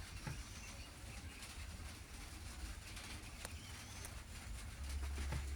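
Faint outdoor ambience of birds calling, with short high chirps over a steady low rumble that grows stronger near the end.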